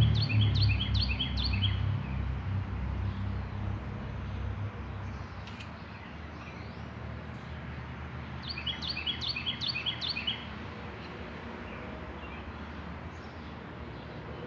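A songbird singing two quick phrases of rapid, repeated high chirps, each about two seconds long: one at the start and one about nine seconds in. A low hum underneath fades away over the first few seconds.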